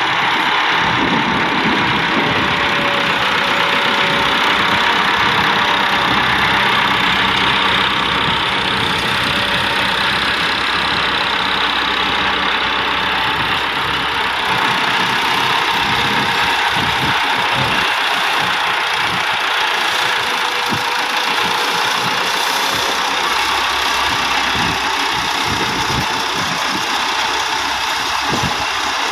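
Massey Ferguson 375 tractor's Perkins diesel engine running steadily, pulling a heavily loaded trolley.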